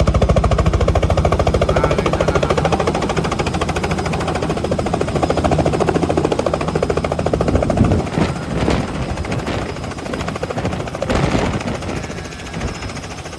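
Helicopter running close by: its rotor beating in a rapid, steady chop over the whine of the engine, easing off somewhat in the second half.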